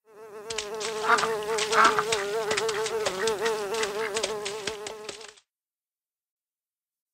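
Sound effect of a fly buzzing, its drone wavering up and down in pitch, stopping about five seconds in.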